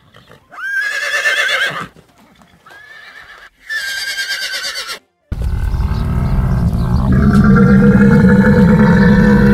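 Horse neighing: a whinny about half a second in, a fainter call, and another whinny around three and a half seconds in. From about five seconds in comes a louder, steady, sustained sound with held tones over a low rumble.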